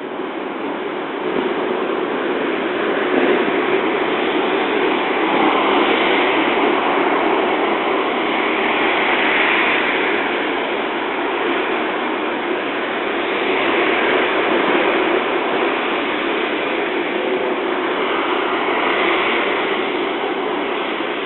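Jet airliner's engines heard through a mobile phone: a steady rushing noise that grows over the first couple of seconds, then swells and eases slowly.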